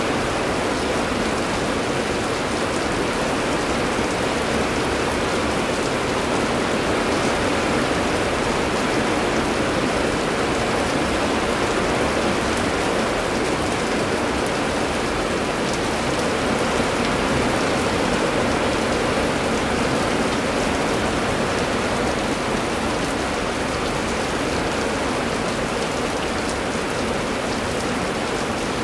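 Steady heavy rain, an even wash of noise with no thunder or distinct events.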